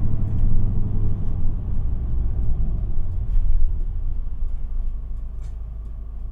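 Isuzu Erga diesel city bus heard from inside the cabin as it slows for a stop: engine and road rumble easing off, growing quieter over the last couple of seconds as the bus comes toward a halt.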